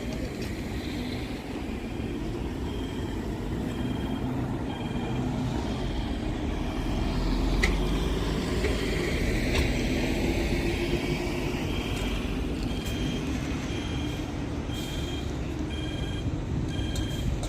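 Steady low rumble of a public-transport vehicle in motion. From about three seconds in, a short electronic beep at two pitches repeats roughly once a second.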